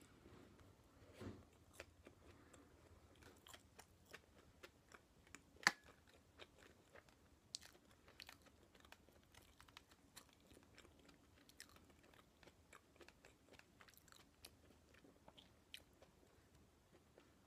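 Close-miked chewing of potato-salad toast: soft mouth clicks and small crunches throughout, with one sharper crunch about a third of the way in.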